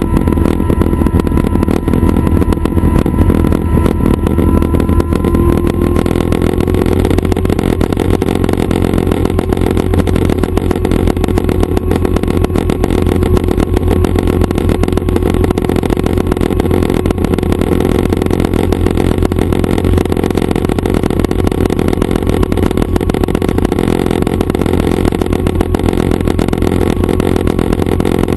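Schweizer 269 light piston helicopter running steadily, its engine and rotor drone loud and even, with a faint whine that rises slightly about five seconds in.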